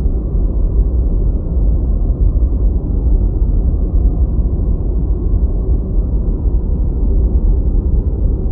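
Steady, unbroken deep white noise, a muffled low hiss weighted heavily toward the bass with nothing in the treble.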